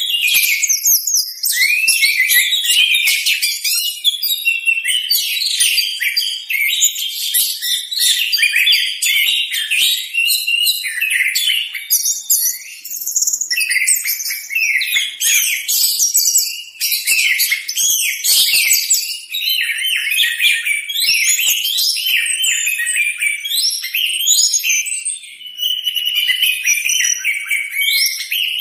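Orange-headed thrush (anis merah) in full song: a rapid, unbroken stream of high, varied whistled and chirping phrases.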